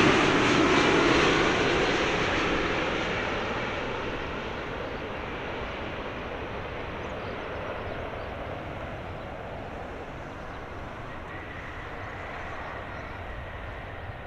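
Jet engines of a landing Boeing 787-9 airliner, loud at first and fading over about four seconds to a steady, lower rumble as the aircraft moves away.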